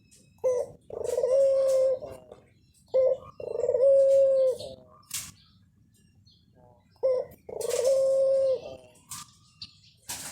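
Doves cooing: three calls, each a short note followed by a long, steady coo, a few seconds apart. Short sharp high clicks come between the calls.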